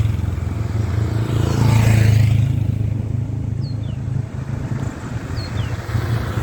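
Motorcycle engine running steadily with a low pulsing note, swelling louder about two seconds in and easing off again.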